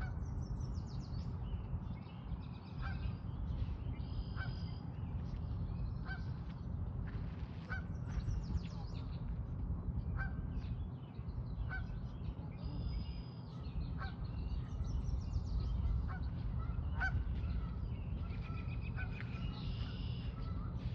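Barn swallow calling: a run of short, high chirps and twitters throughout, over a low steady rumble.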